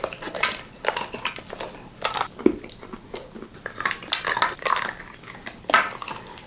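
Close-up crunching and chewing of a Ferrero Rocher chocolate, its wafer shell and hazelnut cracking in many irregular crisp crunches.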